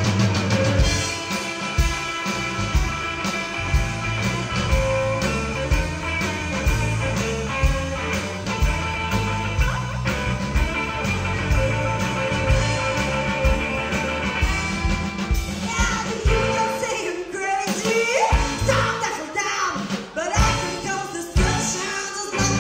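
Live rock and roll band playing a song, with a steady bass and drum beat; singing comes to the fore in the last few seconds.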